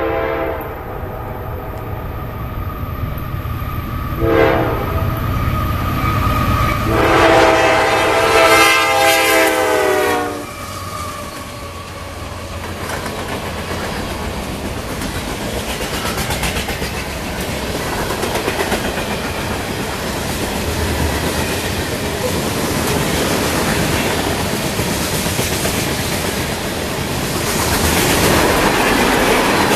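CSX freight train horn: a blast ending just after the start, a short blast about four seconds in and a longer blast from about seven to ten seconds, over the locomotive's low rumble. Then the train's cars roll past with steady clickety-clack wheel-on-rail noise that grows louder near the end.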